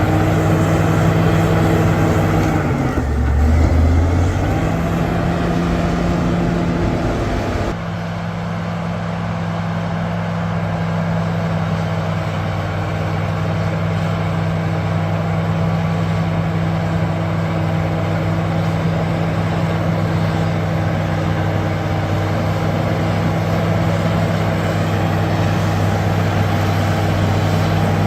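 Bulldozer's diesel engine running at a steady drone. About three seconds in, its pitch dips briefly with a louder low rumble before it settles back.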